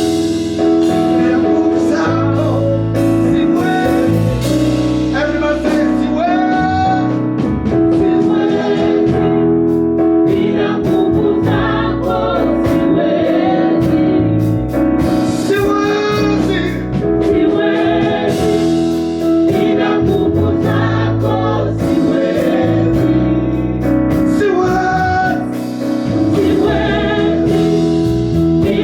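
Gospel praise and worship song: singers with a choir over keyboard chords and a steady bass line.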